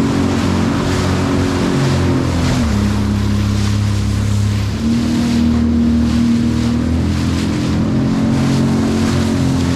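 Jet ski engine running under way, its pitch dropping about two and a half seconds in as the throttle eases and climbing again around five seconds, with water rushing and wind buffeting the microphone.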